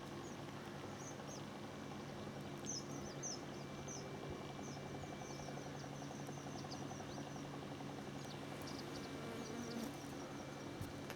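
Many small birds chirping in quick, high-pitched series, over a steady low hum.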